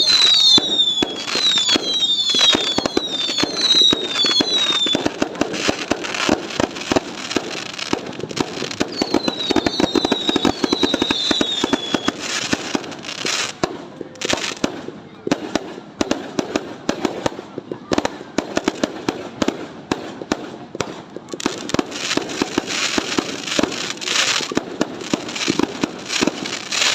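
New Year fireworks crackling and popping without a break, with quick runs of short, falling whistles in the first few seconds and again around ten seconds in.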